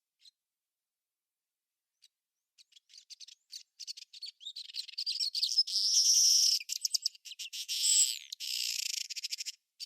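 High-pitched animal chirping and rapid trills. It begins about two and a half seconds in and is loudest in the second half, with a short upward-sweeping call near the end.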